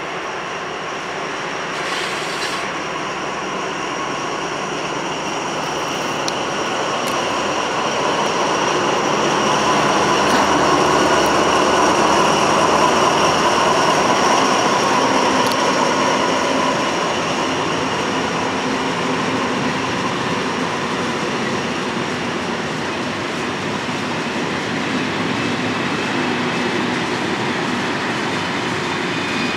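SNCF BB 67523 diesel locomotive hauling six Corail passenger coaches past at speed. Its running sound grows as it approaches and is loudest as the locomotive goes by, about halfway through. The coaches' wheels on the rails follow for the rest of the time.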